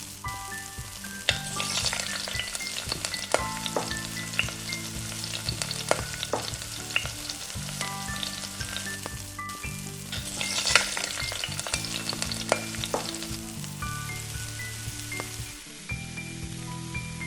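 Breadfruit roti sizzling as it fries in hot oil, with a steady hiss and repeated sharp taps and scrapes of a utensil against the pan as it is stirred and turned.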